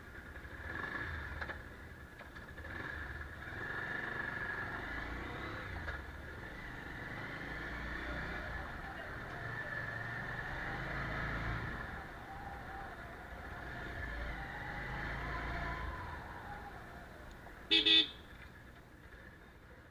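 Road traffic noise rising and falling as vehicles pass, with a brief double horn toot near the end.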